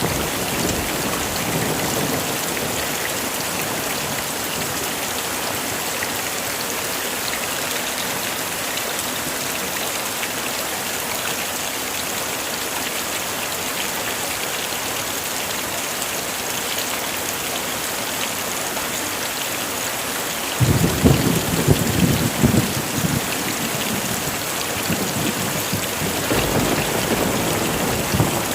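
Heavy rain falling steadily. About two-thirds of the way in, thunder breaks in suddenly and rumbles for a few seconds, with a fainter roll of thunder near the end.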